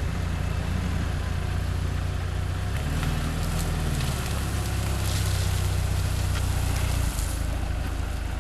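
Off-road SUV engine running at low revs, its note rising briefly about three seconds in and dipping for a moment just after seven seconds as the vehicle is manoeuvred.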